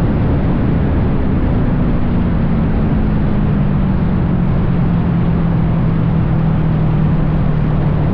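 Kawasaki 650 sportbike engine running steadily, its pitch sinking slowly throughout, over a dense rushing noise.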